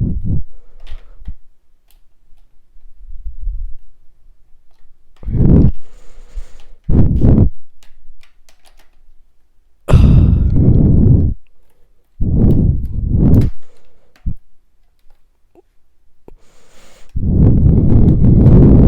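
Plastic parts of a Shark Lift-Away vacuum cleaner being handled and fitted back together, with scattered light clicks. Several loud, low bursts of noise land close to the microphone, each up to about a second and a half long.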